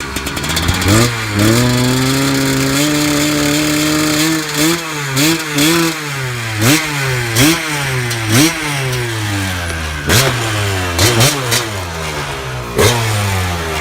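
250 cc two-stroke engine in a custom Honda ATC200 three-wheeler, revved: it climbs about a second in and holds a steady higher speed for a few seconds, then is blipped about ten times, each time the pitch shooting up and falling back toward idle.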